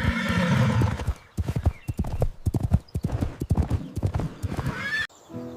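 A horse whinnying, then its hooves clip-clopping for about four seconds, with a short rising whinny near the end.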